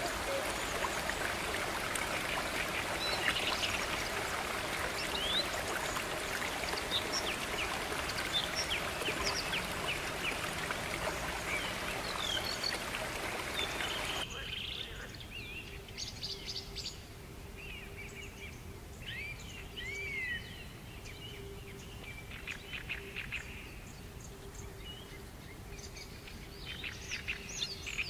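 Birds chirping and calling in short trills over a steady rushing hiss, which cuts off suddenly about halfway. After that the bird calls go on over a quieter background with a faint steady hum.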